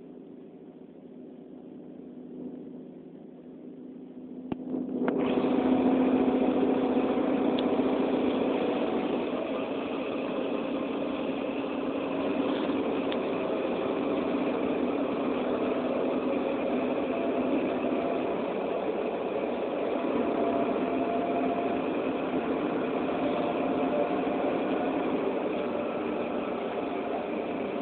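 A vehicle engine idling steadily, with a low hum and several steady tones. The sound jumps sharply louder about five seconds in, just after a click, then holds steady.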